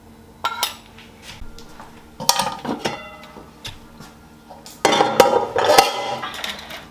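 Dishes and cutlery clinking as bowls and spoons are handled and knocked together, in three bursts. The middle burst leaves a short ringing tone.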